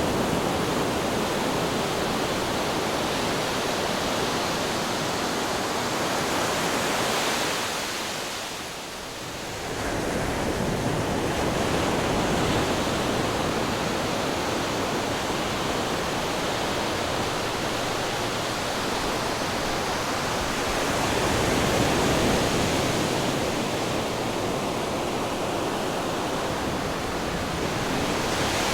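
Ocean waves breaking on rocks: a continuous wash of surf that dips briefly about eight seconds in, then swells back up.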